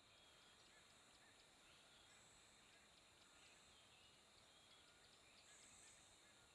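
Very faint outdoor nature ambience: a steady hiss with small scattered bird or insect chirps and a soft high-pitched insect buzz that swells twice, about two seconds in and again near five and a half seconds.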